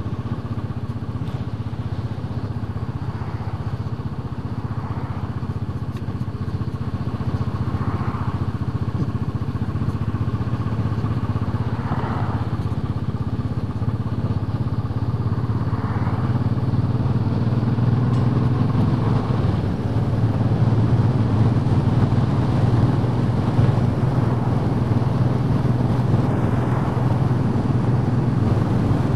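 Royal Enfield Bullet 500's single-cylinder four-stroke engine running steadily under way, growing slightly louder through the second half.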